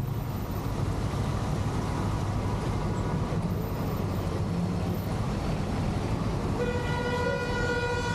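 Steady road-traffic and engine rumble. Near the end a vehicle horn sounds one long steady blast of nearly two seconds.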